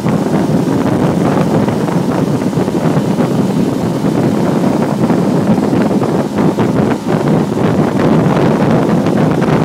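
Steady wind buffeting the microphone aboard a moving boat, with the rush of the boat running underneath.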